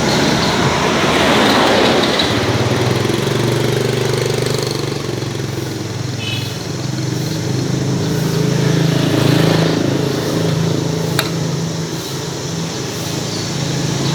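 A vehicle engine running steadily with a low hum that wavers slightly in pitch, and a single sharp click about eleven seconds in.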